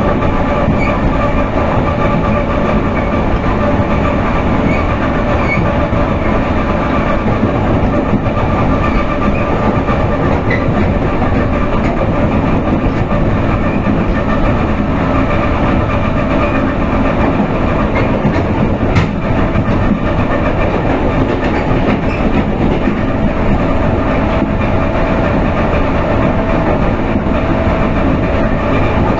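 Electric commuter train (elektrichka) heard from inside a carriage while running at speed: a loud, steady rumble of the wheels on the track. There is a single sharp click about 19 seconds in.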